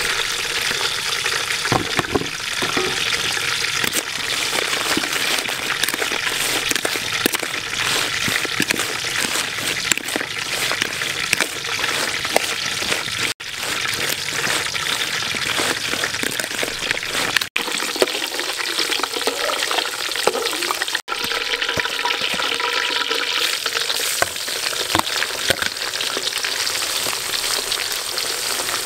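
Oil sizzling and crackling steadily as spiders fry and are stirred in a metal wok. The sound drops out briefly three times.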